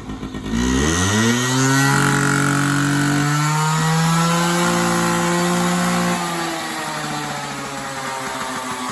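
Small off-road motorbike engine revving up about half a second in and held at high revs, then easing off to a lower steady speed about six seconds in.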